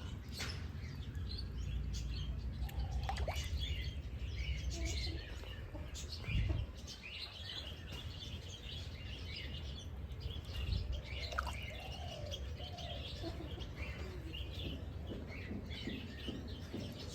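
Many small birds chirping and twittering in quick short calls, over a steady low rumble, with one low thump about six seconds in.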